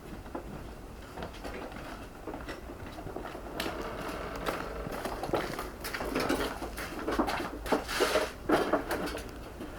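Irregular knocks, clicks and short scrapes of hand work on a workbench, with tools or stone pieces being handled and set down. The sounds grow busier and louder about six seconds in.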